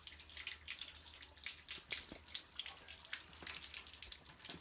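Water splashing and dripping unevenly from a water heater's open drain, the drain faucet removed, as the tank is drained and flushed of calcium scale.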